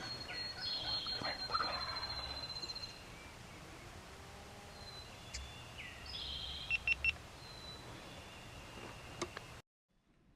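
Wild birds calling in spring woods: thin high songbird calls, one a long fluttering trill about a second in, and three quick chirps past the middle. The sound cuts off abruptly near the end.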